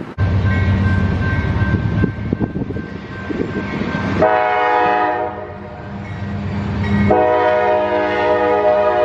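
Diesel locomotive running with a low rumble, then its multi-note air horn sounds: a blast about four seconds in that fades after a second, and a longer blast from about seven seconds in.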